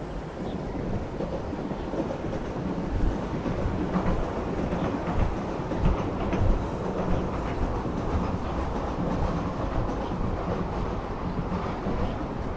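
A train running along the rails: a steady rumble with occasional low knocks.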